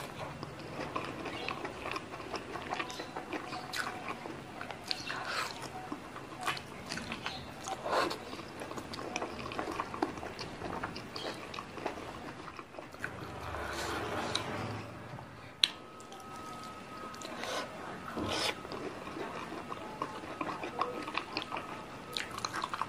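Close-miked eating of squid stir-fry and rice: wet chewing and biting with many small mouth clicks, and one sharp click about two-thirds through.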